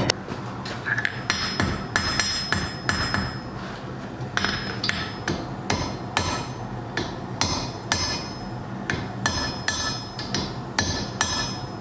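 Hand hammer striking a hot iron bar on an anvil, shaping a Thor's hammer pendant: a steady, uneven run of blows, about two to three a second, each with a short metallic ring, over a steady low hum.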